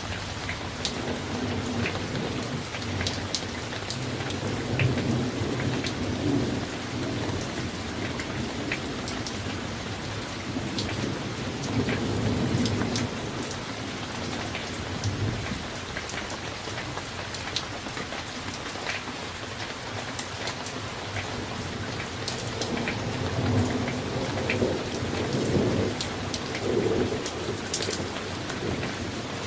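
Summer thunderstorm: steady rain with individual drops ticking on surfaces, and thunder rumbling in long low rolls, swelling in the first few seconds, around the middle and again near the end.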